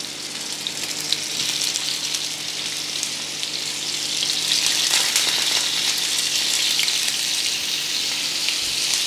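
Beef seekh kebabs sizzling and crackling in hot oil on a flat nonstick tawa as they are laid in one after another; the sizzle grows louder as more kebabs go in.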